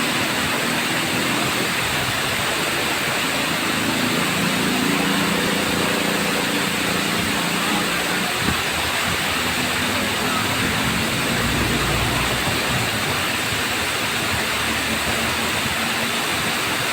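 Tamaraw Falls waterfall: the steady, even rush of falling water. A faint low hum sits underneath through the middle, and there is one short tick about eight seconds in.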